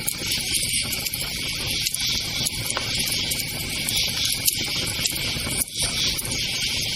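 Campfire crackling with frequent small pops, over a steady bed of crickets chirping.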